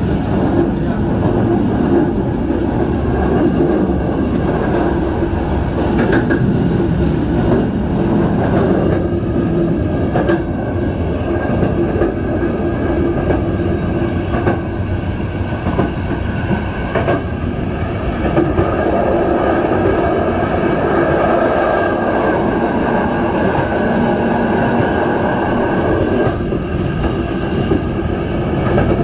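Passenger train running along the track: a steady rumble of wheels on rail, with an occasional sharp clack.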